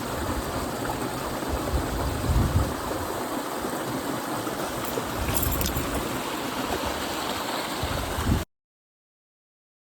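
Mountain stream water rushing steadily, with irregular low rumbling on the microphone, cutting off abruptly to silence about eight and a half seconds in.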